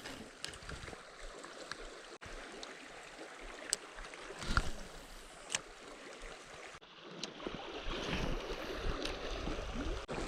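River water flowing and sloshing, with a few sharp clicks scattered through it; the water sound gets louder and deeper about three-quarters of the way in.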